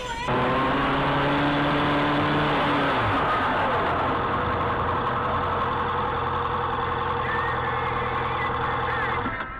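A vehicle engine running steadily, heard loud from inside the vehicle; its pitch drops about three seconds in, and the sound cuts off abruptly at the end.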